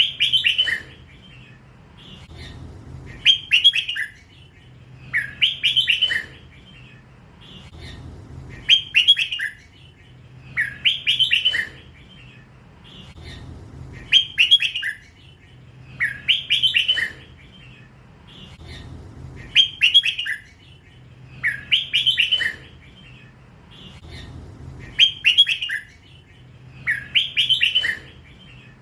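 Young red-whiskered bulbul, still in its first plumage, singing the same short chattering phrase over and over, about once every two and a half seconds. This is the song style Thai keepers call "lak wai".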